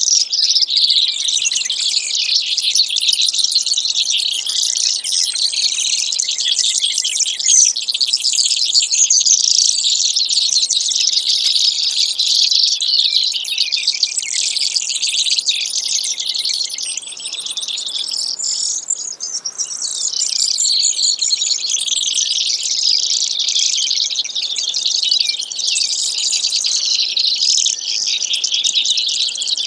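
Brewer's sparrow song: a long, nearly unbroken run of rapid high trills and chirps, briefly weaker about two-thirds of the way through.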